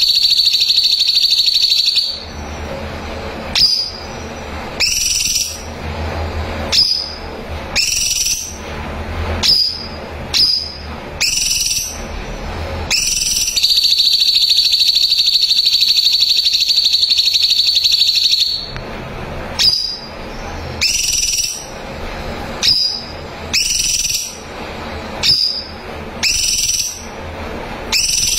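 Cucak cungkok song, as used for training songbirds: a string of short, rising whistled notes about a second apart, broken by two long, even, high trills. The trill in the middle lasts about five seconds and is the loudest part.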